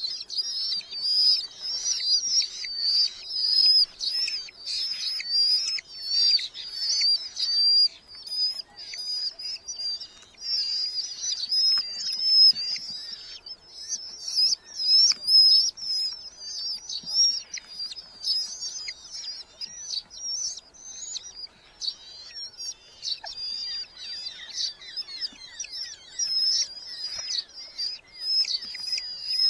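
Red-footed falcons calling: a dense, continuous chorus of high, wavering, rapidly repeated calls, many birds overlapping.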